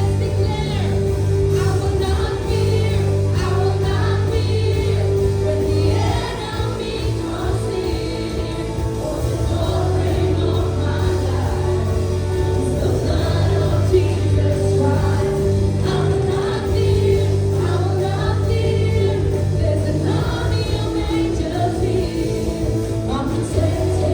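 Worship music: a band plays steady sustained chords while several voices sing together.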